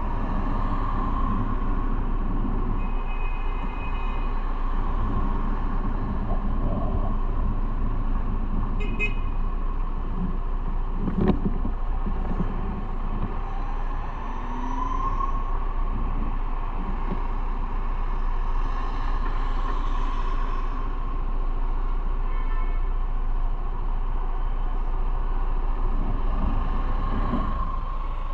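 Motorcycle engine running steadily with road and wind noise while riding in city traffic, its pitch rising for a couple of seconds around the middle. A single sharp knock about eleven seconds in, and brief high-pitched tones a few seconds in, around nine seconds and near twenty-two seconds, like passing traffic horns.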